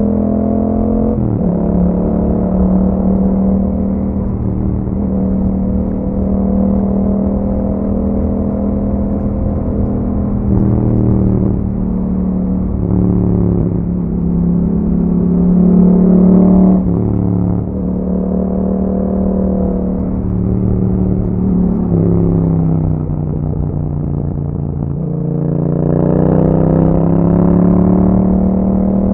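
Yamaha MT-07's 689 cc parallel-twin engine running through an Akrapovic exhaust while riding, a steady engine note that holds at cruising revs. The pitch drops suddenly a few times as the revs change, and climbs steadily near the end as the bike accelerates.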